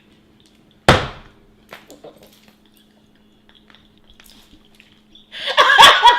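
A single loud, sharp knock about a second in, dying away quickly, over the faint steady hum of a moving car's cabin. Near the end a loud burst of voice without words.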